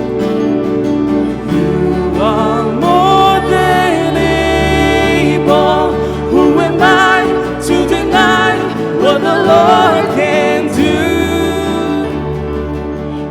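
Worship band music: a melodic lead line with vibrato, without words, weaving over sustained chords and bass.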